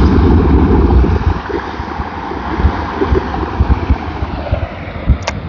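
Wind buffeting the microphone over the broad, steady roar of a Boeing 737's jet engines on its takeoff run, loudest early and easing off after about four seconds. A sharp click near the end.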